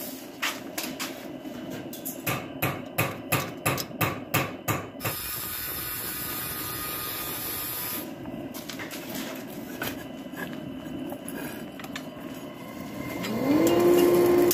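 Hammer striking metal in a quick, even run of about a dozen blows, roughly three a second, which stops about five seconds in. A steady hiss follows. Near the end a motor winds up in pitch to a steady hum, the loudest sound.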